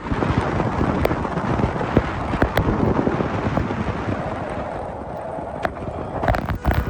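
Car driving on a snowy road: a steady rumble of road and wind noise, broken by scattered sharp clicks and knocks, with a cluster of knocks near the end.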